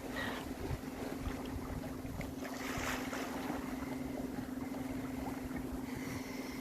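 A 1980 Comfort 30 sailboat under way: water moving past the hull and wind on the microphone, over a steady low hum.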